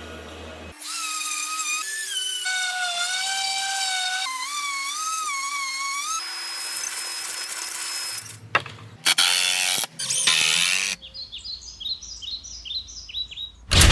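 Power drill running in a string of short cut clips, its motor whine held at a different pitch in each and wavering slightly. About eight seconds in it gives way to harsher, choppier tool noise with a run of quick falling chirps.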